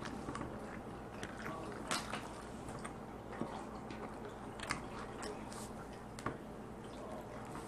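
Close-up eating sounds: wet chewing with scattered sharp clicks and cracks, several of them louder than the rest.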